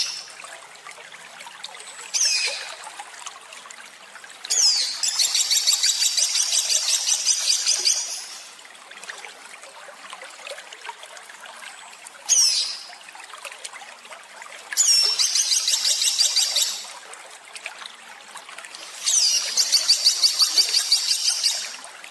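A songbird's recorded song, played as a masteran tutor track. Short sweeping calls alternate with three long, rapid, harsh rattling trills ('tembakan kasar'), each lasting two to three and a half seconds. Under it runs a steady faint trickling-water hiss.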